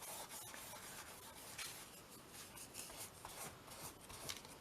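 Faint rustling and rubbing of paper scraps being pressed and smoothed down onto a canvas with matte medium, in a few soft scratchy strokes.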